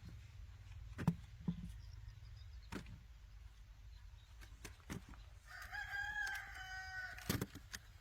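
A rooster crows once, a long call lasting a little over a second and a half, starting about two-thirds of the way in. Scattered sharp knocks and taps come and go throughout over a steady low hum.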